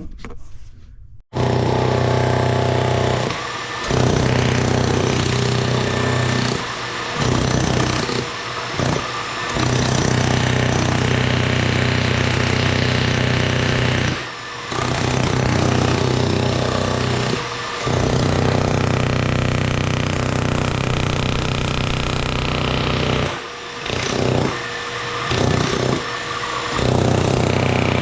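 Jackhammer breaking up a concrete floor slab, starting about a second in and running in long stretches broken by several short pauses.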